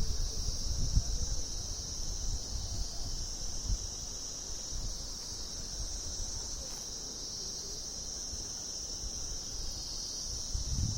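Insects chirring in a steady, high-pitched, unbroken drone, with a low rumble on the microphone in the first few seconds.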